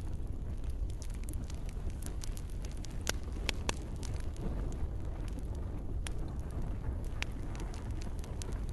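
Campfire crackling, with frequent small snaps and a few louder pops over a steady low rumble.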